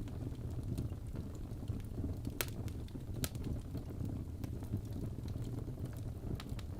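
Wood fire burning in a fireplace: a steady low rumble of flames with scattered crackles and pops of burning wood, the loudest two sharp pops about two and a half and three and a quarter seconds in.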